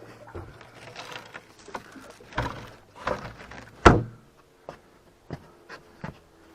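Irregular knocks and thumps against a boat, as of gear and feet being moved aboard, the loudest about four seconds in. A faint steady hum comes in during the second half.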